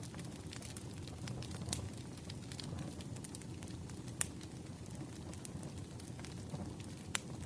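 Wood fire crackling: a steady low rumble of burning logs with irregular sharp pops, two of them louder, a little after four seconds in and near the end.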